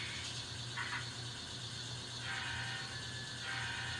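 N scale model locomotive running along the layout track, a steady small mechanical running sound. A thin motor whine comes in for about a second in the middle.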